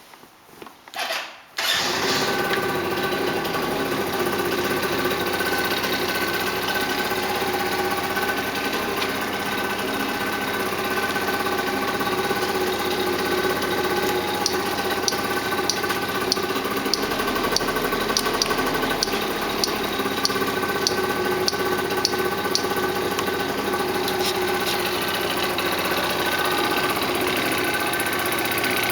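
Yamaha Jog scooter engine cranked briefly, catching about two seconds in and then idling steadily after its repair. A run of light ticks, about two a second, sounds over it in the middle.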